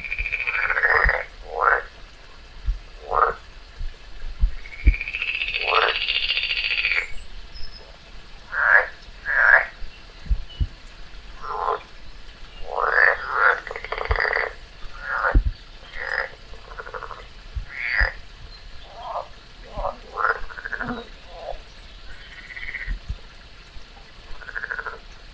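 A frog calling over and over: short croaks, some drawn out to about a second, at irregular intervals, with a few faint low knocks between them.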